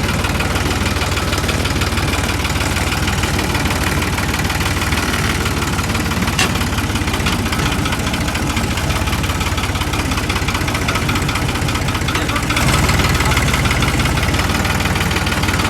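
New Holland 3630 tractor's diesel engine idling steadily, with one short click about six seconds in. The engine runs louder from about twelve and a half seconds in.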